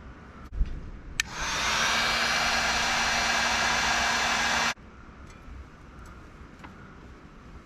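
A handheld heat gun is clicked on and runs with a steady blowing rush for about three and a half seconds, then cuts off suddenly. It is being used to shrink heat-shrink solder seal connectors on the light wiring. Two sharp clicks come just before it starts.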